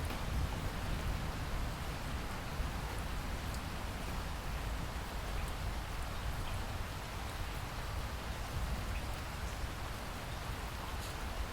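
Steady rainfall: an even hiss of rain with scattered faint droplet ticks and a low rumble underneath.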